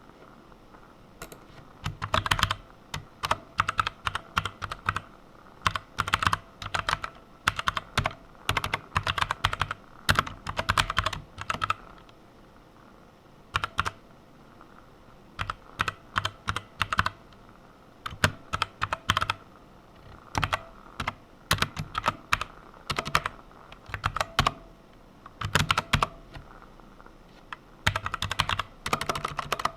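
Typing on a computer keyboard: bursts of quick keystrokes broken by short pauses.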